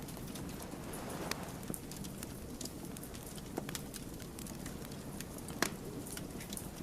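Wood fire burning with a steady low rumble and scattered sharp crackles and pops, the loudest pop a little over five seconds in.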